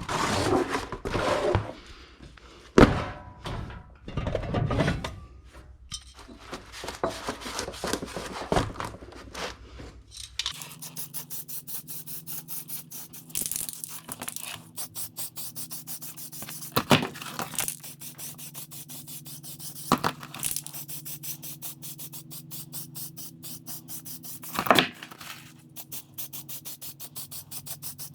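Workshop handling noises, with irregular scrapes and knocks. From about ten seconds in they give way to a steady hum with fast, even ticking and an occasional louder knock.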